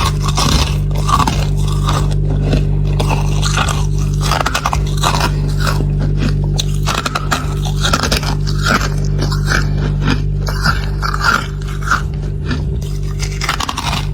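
Freezer frost being scraped and bitten: a dense run of crisp crunches and scrapes, over a steady low hum.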